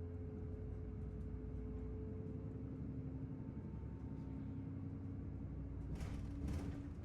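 City bus running, a steady low engine rumble with a constant drivetrain hum. Two short hisses come about six seconds in.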